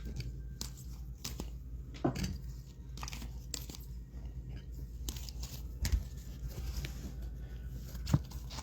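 Trading cards being handled and lined up on a table: rustling and crinkling with scattered light taps, and a few sharper clicks.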